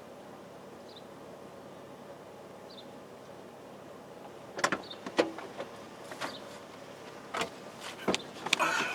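Steady low hum of a vehicle interior, then from about halfway a run of sharp clicks and clunks, like a car door and things being handled as someone gets back into the vehicle.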